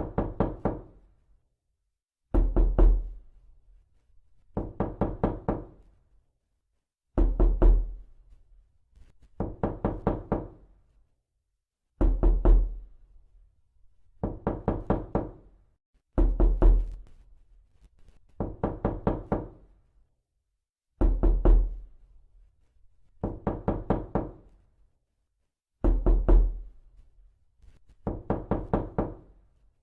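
Repeated knocking in short bursts of about four or five quick raps. A burst comes every two to two and a half seconds, with silence in between.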